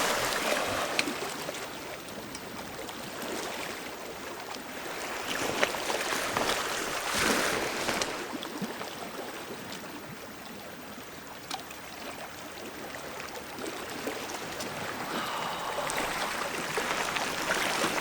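Small lake waves lapping at the shore, a steady wash of water that swells and fades, with a few faint clicks.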